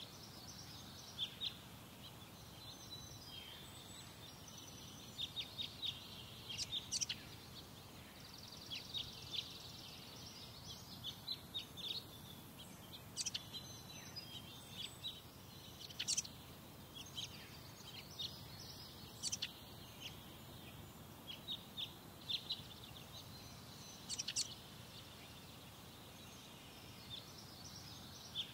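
Birds chirping: many short, sharp, high-pitched calls in quick clusters, over a steady low background rumble.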